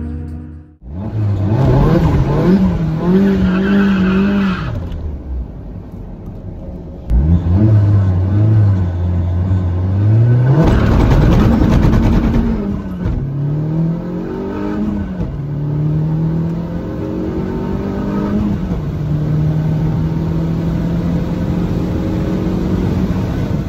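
Vauxhall VX220 Turbo's turbocharged 2.0-litre four-cylinder engine on a full-throttle quarter-mile drag run. The revs climb and drop back at each gear change several times, then settle into a steady drone near the end.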